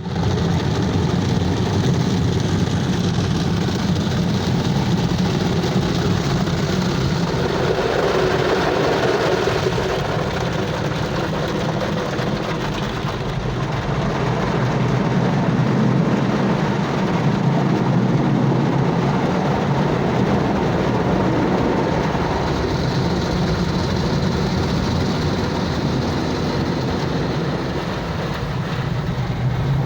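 Automatic car wash machine running: a steady low mechanical rumble with a hiss over it.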